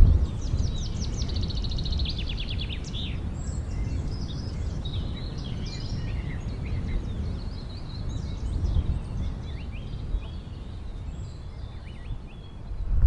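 Small birds chirping and singing over a steady low outdoor rumble, with a rapid trill from about half a second to three seconds in and scattered chirps after it that fade toward the end.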